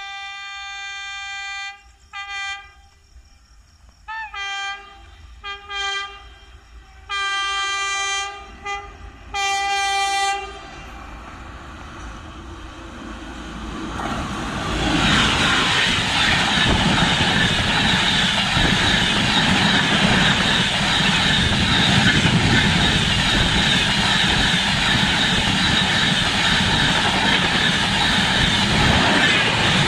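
An Indian Railways electric locomotive sounds its horn in a run of long and short blasts over about ten seconds as the express approaches. From about fourteen seconds in, the loud steady rush and rail clatter of the train passing at full speed takes over.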